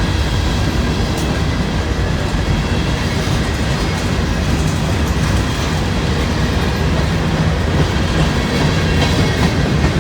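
Freight cars of a long CSX train rolling past: a steady, loud rumble of steel wheels on rail.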